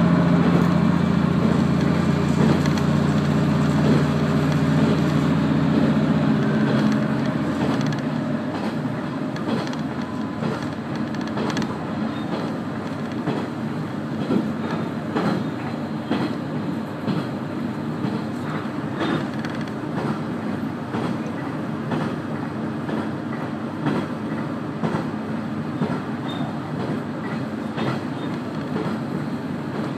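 Diesel railcar heard from inside the cabin: the engine runs under power, then eases off about seven seconds in. After that the train rolls on with steady wheel-and-rail noise and scattered rail-joint clicks.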